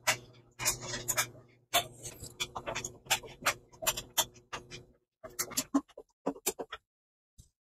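Quick clicks and taps of a screwdriver and wire ends at the terminal screws of an electric water heater thermostat as the wires are reconnected. A steady low hum runs underneath and stops about five seconds in.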